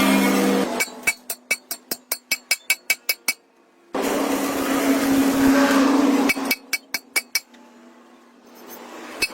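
Hammer blows on metal in quick runs of about five strikes a second, each one ringing, alternating with a few seconds of a small power tool's motor running and then stopping.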